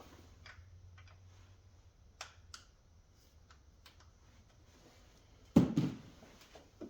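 Scattered light clicks of hand tools and metal parts being handled, with one louder knock about five and a half seconds in and a smaller one near the end.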